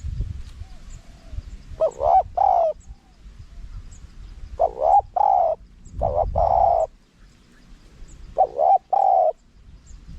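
Spotted dove (nok khao yai) cooing in short phrases of one or two rolling coos, four phrases in all, with a low rumbling noise underneath.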